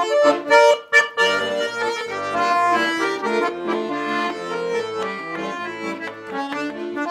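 Russian garmon (button accordion) playing an instrumental passage: a lively melody over sustained chords and bass notes, with no singing.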